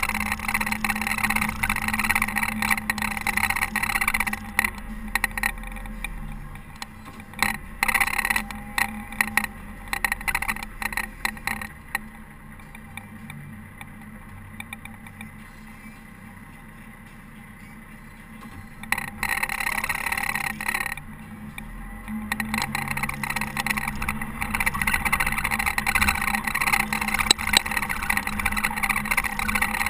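Caterpillar TH330B telehandler's diesel engine working while plowing snow, with scattered knocks, dropping to a quieter run for several seconds midway before working hard again.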